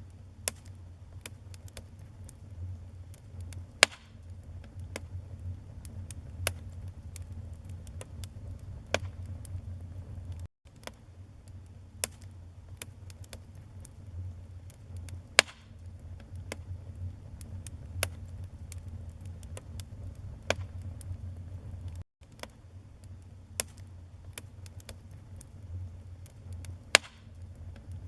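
Wood fire burning in a fireplace: a steady low rumble under irregular crackles and pops, with a few sharper snaps standing out about 4, 15 and 27 seconds in. The sound drops out for an instant twice.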